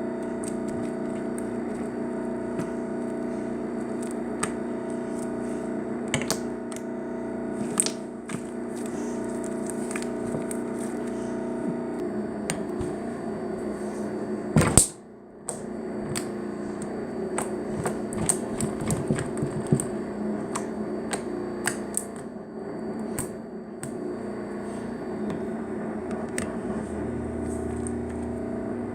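Slime being squished and poked, giving irregular sharp clicks and pops, the loudest about halfway through, over a steady background drone.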